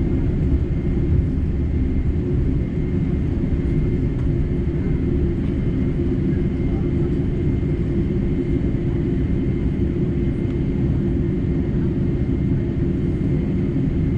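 Steady cabin drone of a Boeing 747-8 on the ground with its GEnx engines running, heard from a window seat. Heavy low rumble with a thin steady whine on top.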